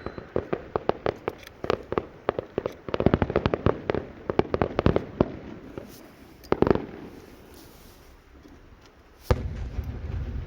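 Aerial fireworks going off in rapid sharp cracks and bangs, thickest about a third of the way through, then one loud bang and a lull. A steady low rumbling noise comes in near the end.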